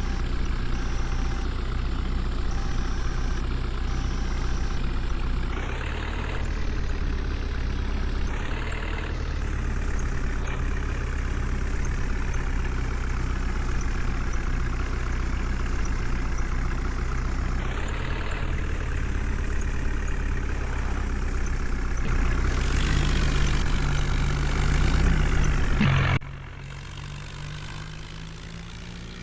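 Tractor's diesel engine running steadily at low revs. About 22 seconds in it revs up, louder and higher, then the sound drops off abruptly about 26 seconds in to a quieter engine note.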